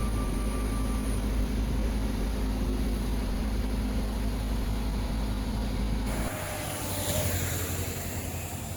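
A steady low engine rumble, as of a vehicle running, with a few steady low tones in it. About six seconds in, the rumble drops away and leaves a lighter hiss.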